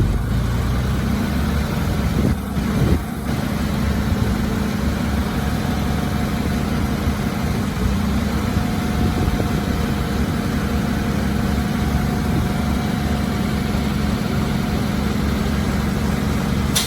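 Heavy diesel engine of earthmoving machinery running steadily at a low, even note. A couple of short knocks come about two to three seconds in.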